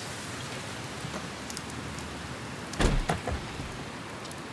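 Steady rain falling, with a dull thump about three seconds in.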